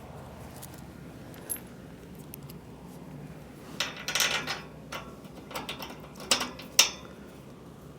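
Metal bolts and nuts clinking and rattling as they are handled and fitted, a burst of sharp clicks and short jingles from about four seconds in, ending with a louder clink near seven seconds.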